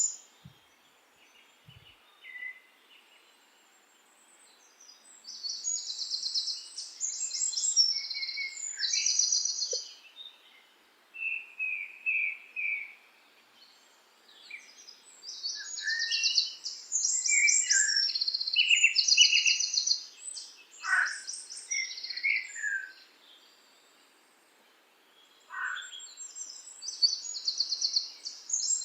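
Birds singing: high, rapid trilled phrases come in bursts, with short chirps and calls between them and brief quiet gaps.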